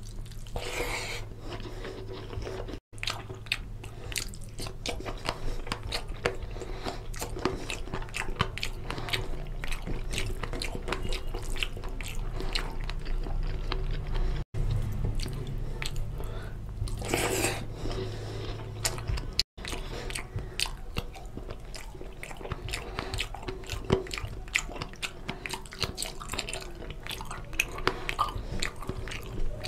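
Close-miked eating: a man chewing mouthfuls of rice and oily mutton lung curry, with steady wet smacking and clicking of the mouth. The sound cuts out for an instant three times.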